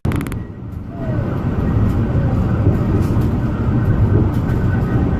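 Narrow-gauge Alishan Forest Railway train running, heard from on board as a steady low rumble that dips briefly near the start.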